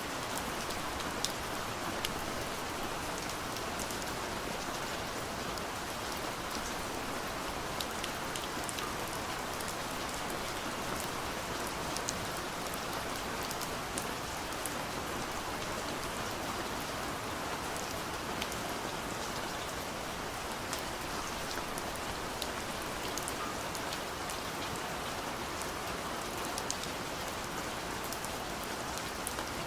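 Steady, gentle rain falling on a window pane, with scattered individual drop ticks over an even hiss of rainfall.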